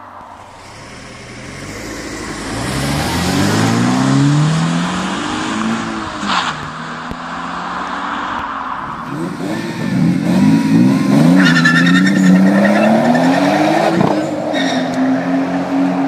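Car engine and exhaust revving hard: the pitch climbs steeply, drops back and climbs again several times, with a sharp crack about six seconds in, then holds high near the end.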